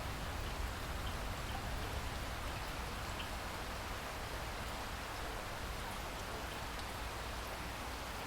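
Steady rain falling, an even hiss with a low rumble beneath it and a few faint drop ticks.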